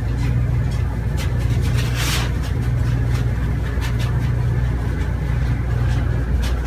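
Steady low engine rumble, as of a vehicle running, with a brief hiss about two seconds in.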